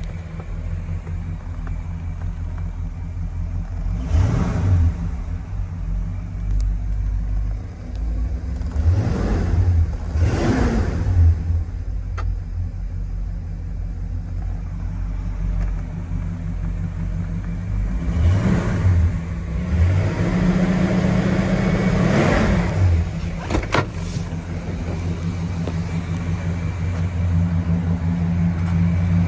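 1965 Pontiac Grand Prix's V8 engine running while still cold, with about five brief throttle blips that rise and fall in pitch between spells of idle.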